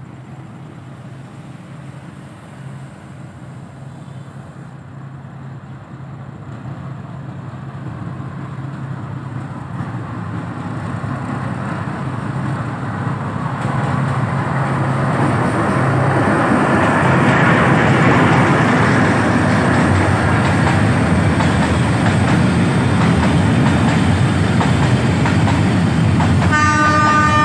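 D13E diesel-electric locomotive hauling a ballast train, approaching and growing steadily louder as engine and wheel noise build into a steady rumble of wagons rolling past. Its horn sounds briefly near the end.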